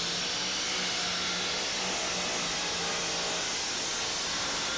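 A tractor-pulling vehicle's engine at full throttle during a pull: a loud, steady roar with a strong hiss and a faint even hum underneath.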